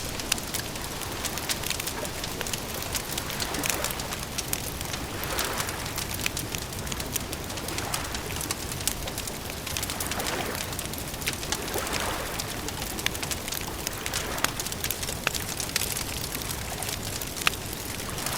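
Campfire crackling: many small sharp pops and snaps at irregular intervals over a steady hiss, with softer swells rising and fading every couple of seconds.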